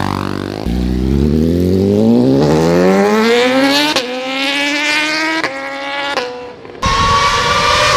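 Superbike engine accelerating hard: the pitch climbs steadily, then drops and climbs again with quick upshifts about four, five and a half and six seconds in. After a short dip near seven seconds, an engine holds a high, steady rev.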